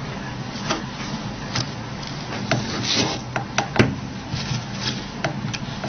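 Light clicks and short scrapes of small hand tools on the plastic and metal parts of a Nokia 8800 phone being taken apart, over a steady low hum.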